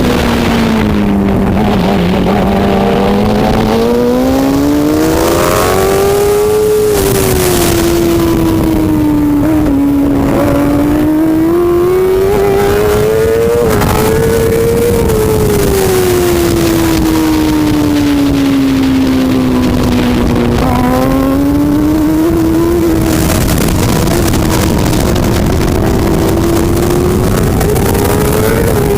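Superbike racing motorcycle engine running hard, its pitch climbing and falling over several seconds at a time as the bike accelerates and slows, with a few short breaks in the note, over a steady rushing noise.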